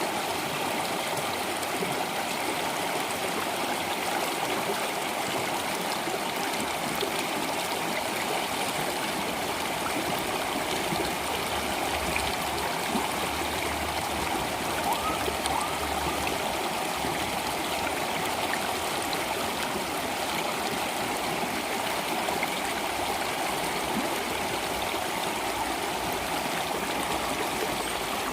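Water flowing steadily in a stream, an even rushing and gurgling that doesn't change.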